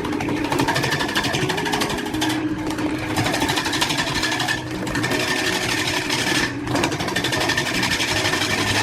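A small machine running with a fast, even, rattling tick, over background music.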